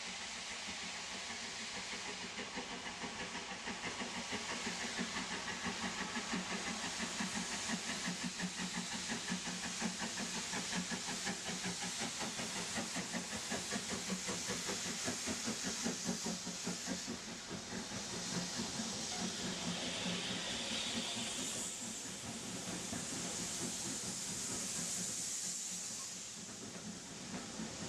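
Steam locomotive working hard, with a rapid, even beat from its exhaust over a continuous steam hiss.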